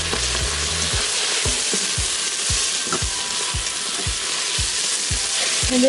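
Onions, jalapeños and ground spices sizzling as they sauté in an Instant Pot's stainless steel inner pot while being stirred with a spatula. Soft low thumps come about twice a second from about a second in.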